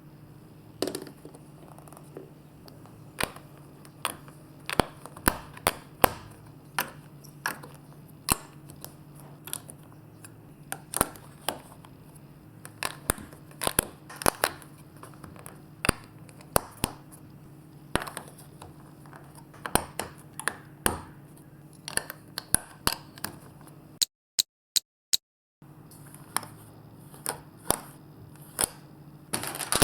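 Marbles clicking and clattering as they run down a course of plastic building blocks and magnet pieces: irregular sharp clicks, a few a second, over a faint steady hum.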